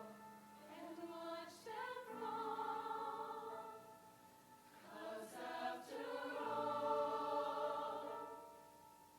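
High school show choir singing long held chords in two swelling phrases, each fading away before the next begins.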